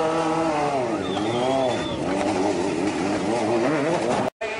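Motorcycle engine revving, its pitch rising and falling several times, cut off abruptly near the end.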